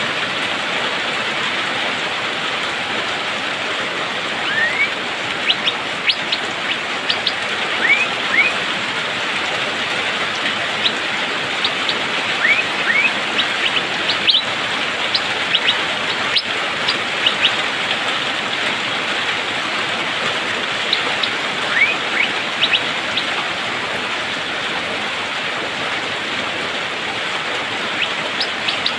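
Asian fairy-bluebird (cucak biru) giving short, sharp rising calls, often in quick runs of two or three, over a steady hiss of rain.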